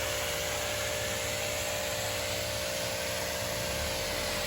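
Pressure washer with an undercarriage cleaner attachment spraying water: a steady hiss over a constant motor hum.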